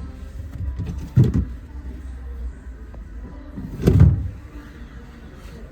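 Two dull thumps, about a second in and again about four seconds in, from a fridge freezer being handled, over a low steady rumble.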